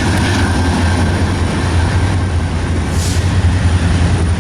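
Diesel-hauled train running by with a steady low rumble, and a short hiss about three seconds in.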